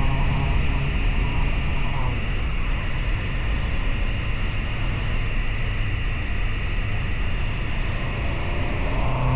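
Motorcycle engine running on the move, under a steady rush of riding noise. The engine note drops back about two seconds in and rises again near the end.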